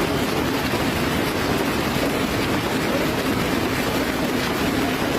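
Hail and rain pelting steadily in a storm, a dense, even patter that does not let up.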